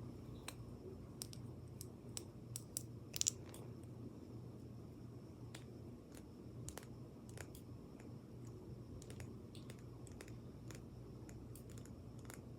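Light, irregular taps and clicks from makeup items being handled and tapped, with a louder cluster about three seconds in, over a faint steady hum.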